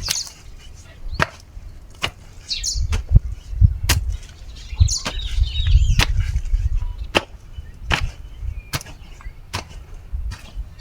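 A hand digging tool chopping into soil with regular strikes about once a second while a drainage channel is cut, with a rougher stretch of scraping midway.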